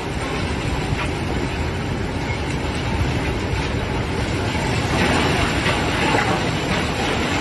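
VST Shakti M932 30 hp compact tractor running steadily, a dense, noisy mechanical sound that grows a little louder about five seconds in.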